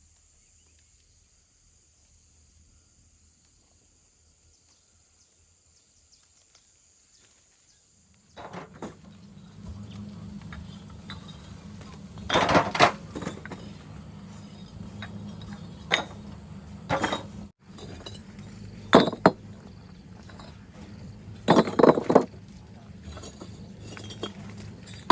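Very quiet at first, then a steady low hum starts about eight seconds in, with a handful of loud, sharp clinks of hard objects, like dishes or metal utensils knocking together.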